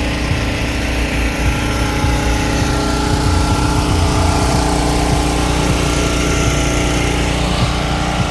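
An engine idling steadily, with a constant low rumble and a few held tones.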